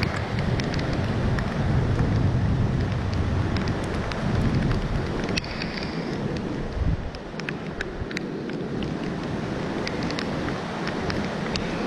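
Storm wind buffeting the microphone, with scattered small ticks. The gusts are heavier in the first half and ease about seven seconds in.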